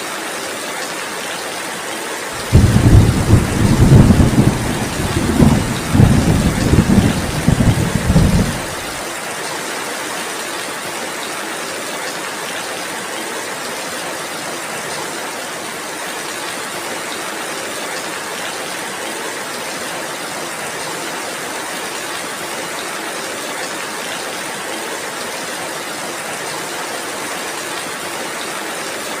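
Heavy rain falling steadily. About two seconds in, a long roll of thunder rumbles in several swells for some six seconds, the loudest thing here, then fades back to the rain alone.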